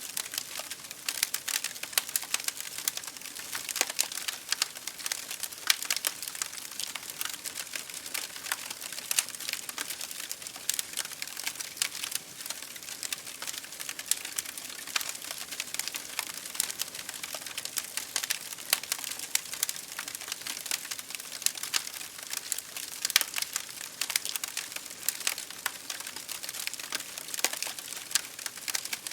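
Wood fire crackling in a fireplace, with dense, irregular pops and snaps over a steady hiss of rain hitting a window pane.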